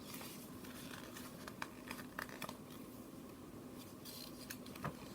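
Faint paper rustling with a few light clicks and taps: pages of a book being handled and turned.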